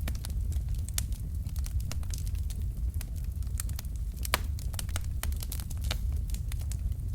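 Wood fire in a fireplace burning, with a steady low rumble of flame and irregular sharp crackles and pops from the burning logs, one louder pop about four seconds in.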